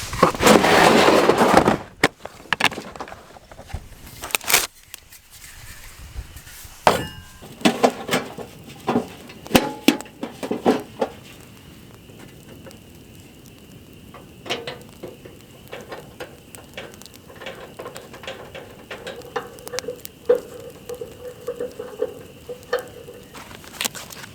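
Camp cookware being handled: a loud rustling burst at the start, then a long run of scattered clinks and knocks of pots, pans and utensils.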